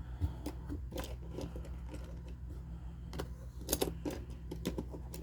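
Irregular small clicks and taps of diecast toy cars and a plastic carrying case being handled, over a steady low hum.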